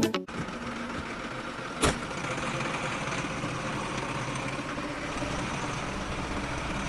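A small motor running steadily, with a single sharp click about two seconds in.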